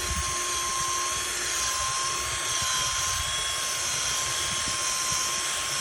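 Power buffer running steadily while polishing a plastic car headlight lens during the buffing stage of a restoration. It makes a steady whine over an even rushing hiss.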